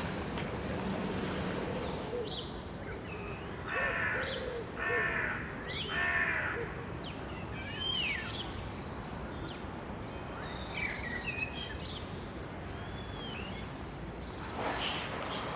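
Birds calling: three loud, harsh calls about a second apart near the middle, with thin, high trills and chirps from smaller birds before and after, over steady background noise.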